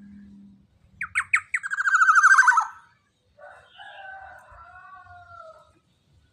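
Black-naped oriole (kepodang) calling: a few sharp descending notes about a second in run into a loud, rapid rattling trill, followed by a fainter nasal call on two parallel, slightly falling tones.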